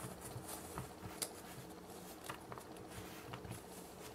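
Faint scattered ticks and crackles of kinetic sand being pressed by hand into a thin clear plastic cup.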